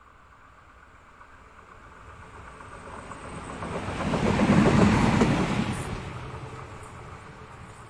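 Small train passing by: its rumble and wheel clatter grow steadily, peak about halfway through, then fade away.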